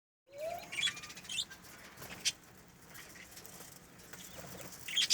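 Birds making short, high chirps and squeaks, a few clustered about a second in and again near the end, with one sharp click a little after two seconds.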